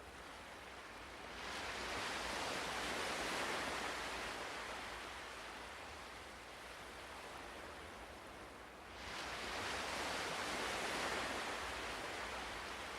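Ocean waves breaking on a shore. Two waves surge in, the first about a second in and slowly fading, the second sharply about nine seconds in.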